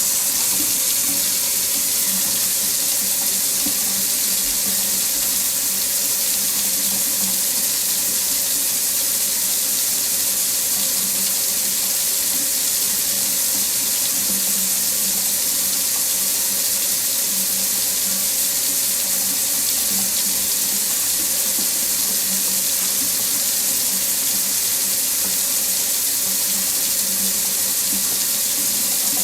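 Tap water running steadily into a sink, a constant even hiss of splashing water.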